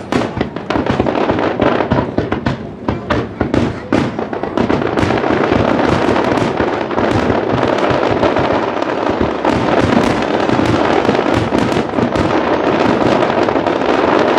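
Fireworks display at close range: rapid, overlapping booms and bangs of shells, distinct at first and merging into a dense, almost continuous barrage about four seconds in.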